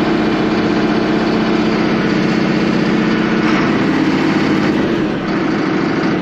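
Allis-Chalmers 7580's 426 cubic-inch turbo diesel running steadily, exhausting through a newly fitted factory-style muffler instead of a chrome stack.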